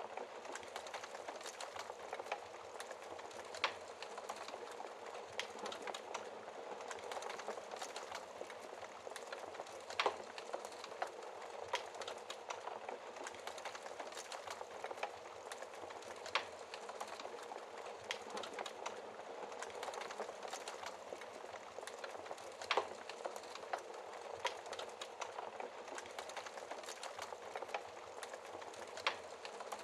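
Wood fire in a fireplace crackling: a steady hiss of flames with frequent sharp pops and snaps from the burning logs, a few of them louder.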